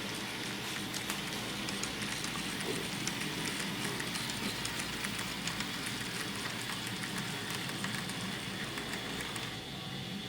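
N scale model train running along the track: a steady motor whir with many small, rapid clicks from the wheels and rails, the clicking dropping away near the end.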